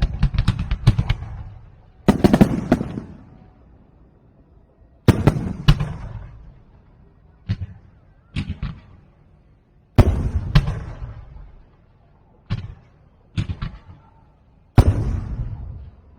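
Aerial fireworks bursting overhead: repeated volleys of sharp bangs, each trailing off in crackle over a second or two, about nine volleys with short quieter gaps between them.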